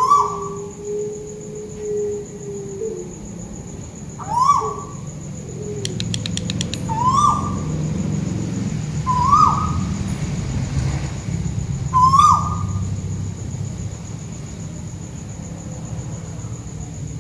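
A bird the uploader calls a burung tuwu, calling five times a few seconds apart, each call a short note that sweeps sharply upward. A steady high whine and a low hum run underneath.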